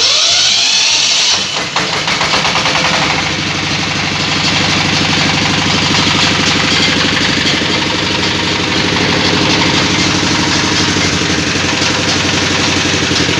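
Meat and meatball grinding machine's motor starting abruptly and running steadily at an even speed.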